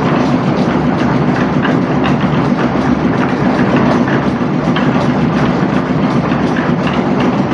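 An engine-driven construction machine running steadily under a continuous dense clatter, with a constant low hum and many irregular rattles and knocks.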